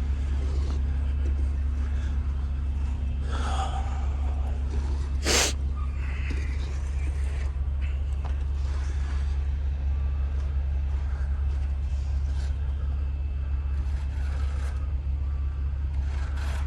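Peterbilt 389's Cummins X15 diesel idling with a steady low hum, with one short sharp burst of noise about five seconds in.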